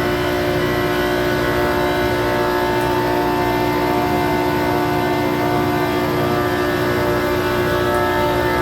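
Steady hum and whine of running plant-room machinery, water pumps and motors, with several constant tones that do not change.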